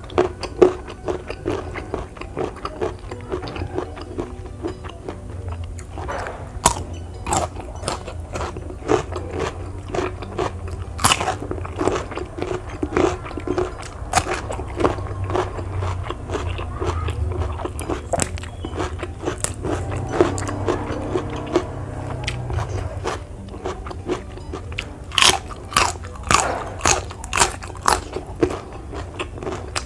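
Close-miked biting and chewing of raw, crunchy lalapan vegetables and beans (petai, jengkol, winged beans, cucumber): crisp crunches come every second or so, with quicker runs of bites about a quarter of the way in and again near the end.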